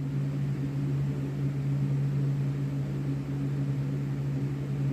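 Steady low mechanical hum with a faint noisy hiss over it, unchanging throughout.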